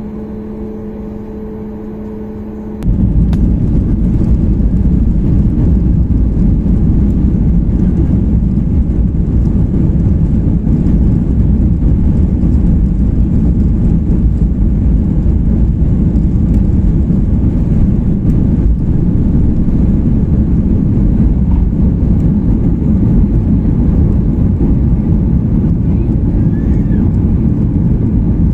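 Boeing 737 cabin noise heard from inside the cabin: a steady hum with a faint tone, then about three seconds in a sudden jump to a loud, steady, low rumble of the jet engines at high power, as on the takeoff run and climb.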